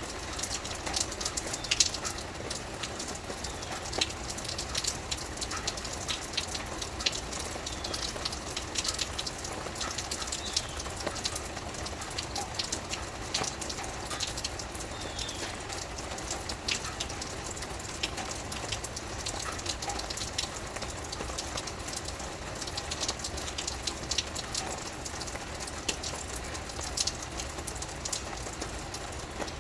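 Steady rain falling, with many separate drops ticking sharply over a constant wash.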